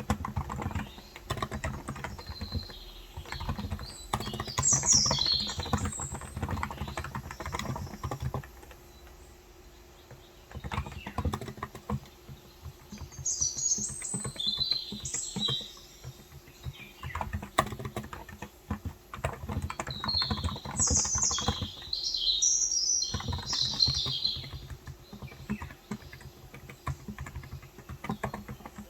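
Typing on a Cox Endeavor electrostatic capacitive (Topre-style) tenkeyless keyboard with light 35 g keys: quick runs of soft keystrokes, with a pause of a couple of seconds in the first half. Small birds chirp in three short spells over the typing.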